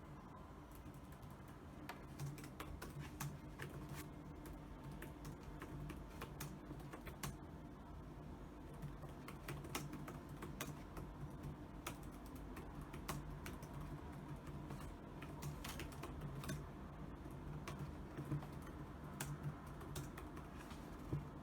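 Typing on a computer keyboard: irregular key clicks that start about two seconds in and continue in uneven runs, over a faint steady hum.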